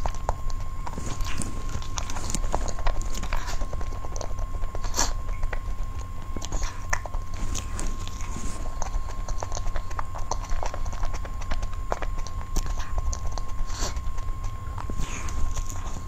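Close-miked chewing and mouth sounds of eating a soft cream-filled pink cake, with many short clicks of lips and tongue scattered throughout.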